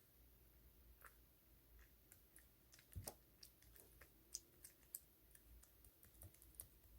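Clear slime being handled, giving faint, scattered small clicks and sticky pops, the loudest about three seconds in.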